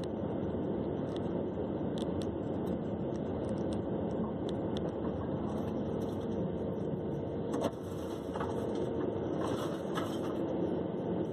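Steady engine and road noise of a car being driven, with a few faint clicks and one small knock about seven and a half seconds in.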